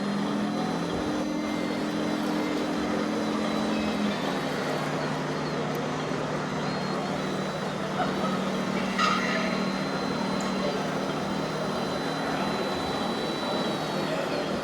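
Engine sound of RC model trucks: a steady low hum that shifts pitch about four seconds in, with a short burst near the middle and a thin high tone after it, over hall crowd chatter.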